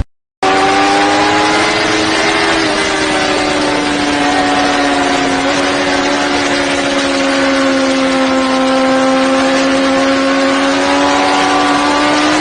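Motorcycle engine running at a steady, even pitch over a constant rushing hiss. It starts just after a brief silence and dips slightly in pitch a couple of seconds in.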